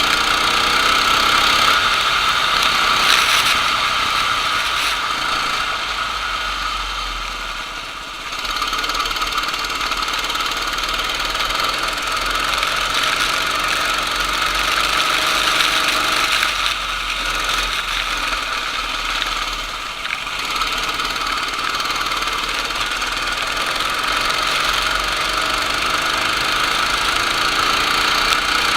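Go-kart engine running hard under a steady rushing hiss. Its revs drop twice, about a third of the way in and again past the middle, then climb again each time.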